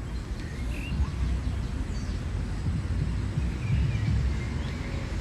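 Faint bird chirps, a few short high notes, over a steady low rumble.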